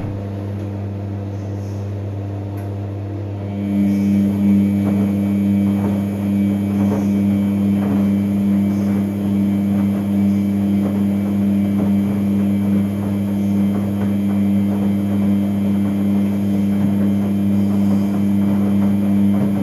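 New Samsung washing machine running with a loud, steady humming drone that steps up in level about four seconds in and then holds. This is the horrible noise the owner complains of, measured at 93 dB.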